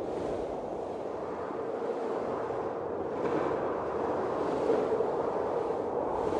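Blizzard wind blowing as a steady low rushing noise, with gusts that swell about three seconds in and again near the end.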